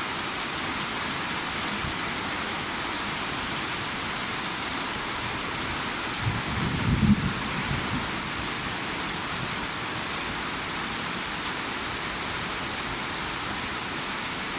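Steady heavy rain falling, an even hiss throughout. About halfway through there is a brief low rumble or thump, the loudest moment.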